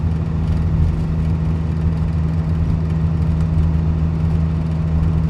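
Peterbilt 379's 550 hp Cat C-15 diesel engine running steadily while the truck cruises down the highway: an even, deep drone with no change in pitch.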